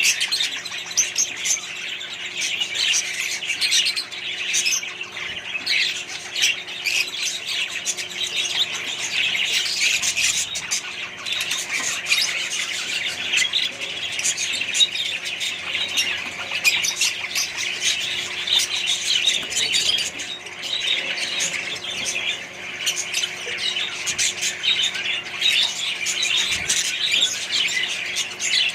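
A flock of budgerigars and other small parrots chattering and squawking together in a dense, unbroken mass of quick, high calls.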